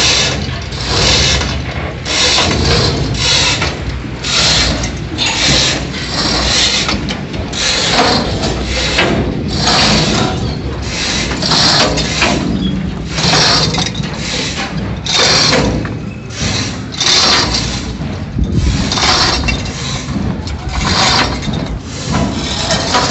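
Rhythmic mechanical rasping from a hand-worked metal mechanism, roughly one harsh stroke a second, unbroken.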